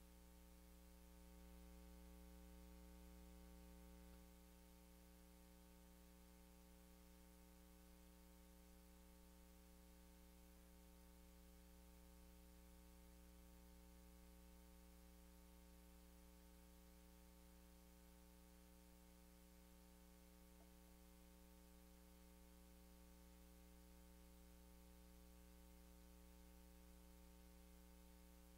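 Near silence with a faint, steady hum and hiss.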